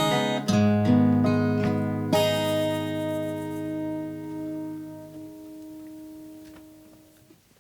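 Closing chords of a live song on guitar: a few strummed chords, the last struck about two seconds in and left to ring, fading out near the end.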